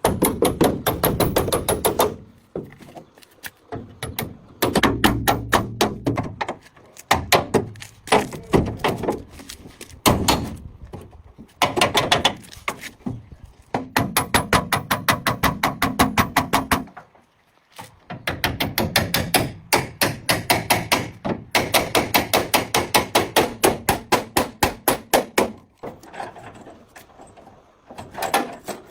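Hand hammering: quick runs of repeated strikes, several a second, each run lasting a few seconds with short pauses between.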